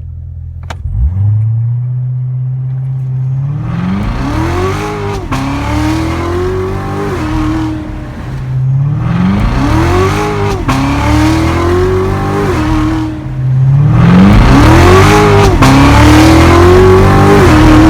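2017 Corvette Z06's supercharged 6.2-litre V8 launching under launch control. The engine is held at steady revs, then accelerates hard at full throttle: three times the pitch climbs, drops sharply at an upshift and climbs again, loudest near the end.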